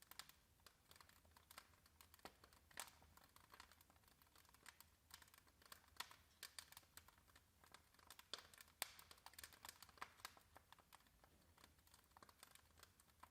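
Split-log wood fire in a fireplace crackling faintly, with irregular sharp clicks and a few louder pops.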